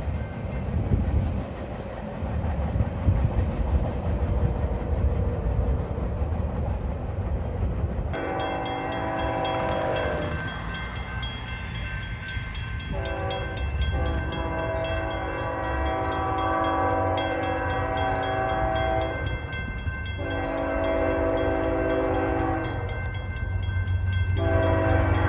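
A freight train's rumble, then about eight seconds in the locomotive's air horn sounds four blasts of several notes at once, the second held longest, over the train's continuing rumble.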